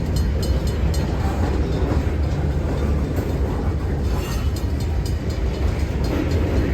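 Freight train rolling by with a steady low rumble and scattered clicks of the wheels over the rail.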